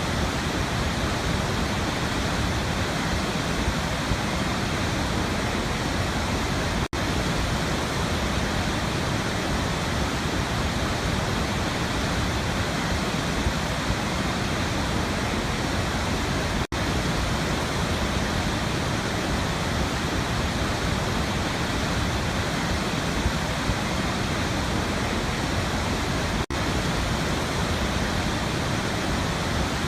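Waterfall: a steady, unbroken rush of falling water. It dips very briefly three times, about every ten seconds.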